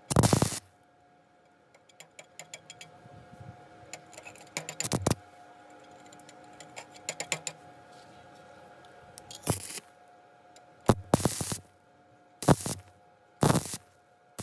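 Stick-welding arc struck in short, harsh crackling bursts, one at the start and four more spaced about a second apart near the end. In between come a run of light metallic clicks and taps over a faint steady hum.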